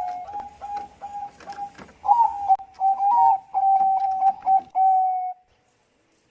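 Zebra dove (Bangkok perkutut) cooing: a rapid run of short, repeated coos at one pitch, a few of them with a quick upward lilt. The cooing ends on a longer, slightly falling note about five seconds in, then stops abruptly.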